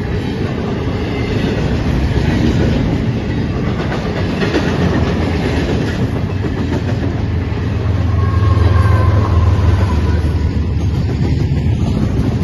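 Intermodal freight train rolling past: a steady rumble of steel wheels on rail. It swells louder with a deeper hum from about seven to ten seconds in.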